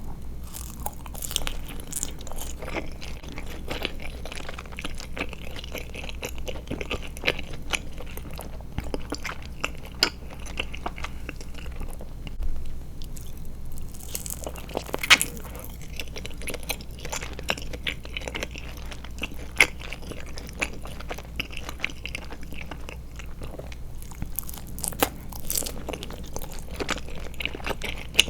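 Close-miked mouth sounds of biting and chewing Trolli Glotzer eyeball gummies: wet smacks and sharp clicks in a steady run, with one louder bite about halfway through.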